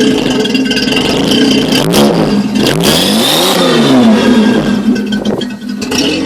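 Datsun 280Z's stock 2.8-litre straight-six running loud through a Flowmaster Super 44 muffler and single-in, dual-out side exhaust, revved up and back down a few times about two to four seconds in.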